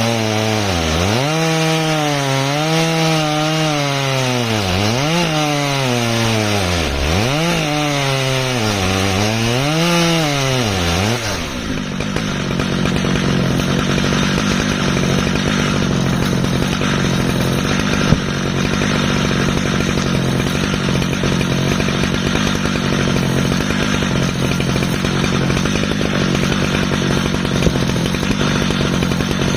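Stihl MS 881 two-stroke chainsaw on an Alaskan mill, running while ripping an ash log lengthwise. For about the first 11 seconds the engine's pitch dips and recovers several times. It then settles into a steady high pitch with a heavier rasp of the chain cutting.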